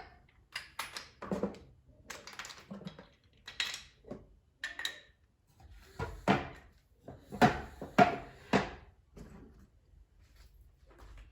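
A series of irregular knocks and clatters from household objects being handled, some with a short ring; the loudest come in a cluster past the middle.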